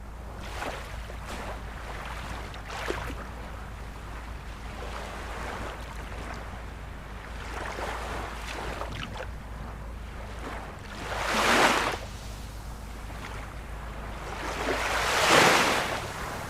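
Ocean surf washing steadily, with two louder waves breaking, one about two-thirds of the way through and one near the end.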